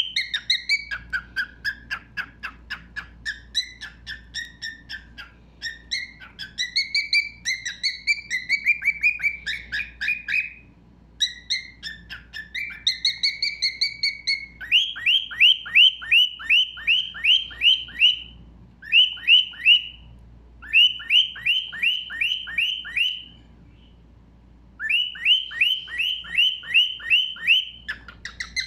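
Thick-knees (karawan) calling. The first half has rapid whistled trills and warbling phrases; after that come bouts of loud, clear notes, each falling in pitch, about five a second, broken by short pauses.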